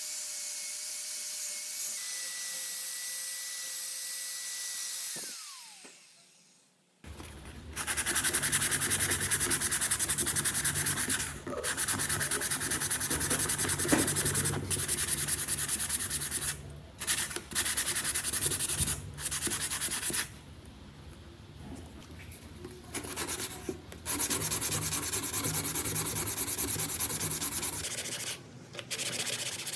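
A power tool's motor whine holds steady, then winds down and stops about five seconds in. After a short silence, wood is sanded in long rubbing passes with brief pauses between them.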